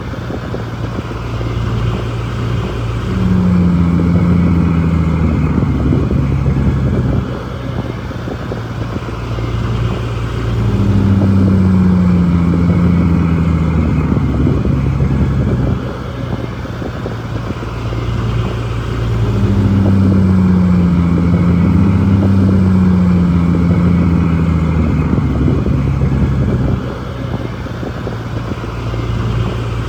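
Shantui bulldozer's diesel engine working, its pitch rising and falling as it loads up and eases off in cycles about every eight seconds.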